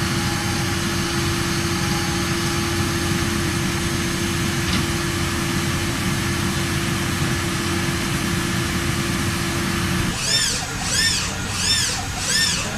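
Industrial machinery running with a steady noise and a hum. About ten seconds in the sound changes abruptly to a rhythmic whirring that rises and falls in pitch about one and a half times a second.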